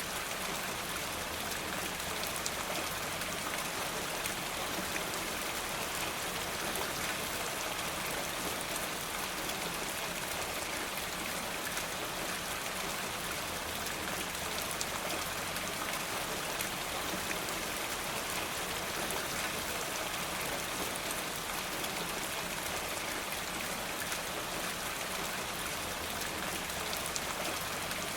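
Steady rain falling, an even hiss with many small drop ticks pattering through it.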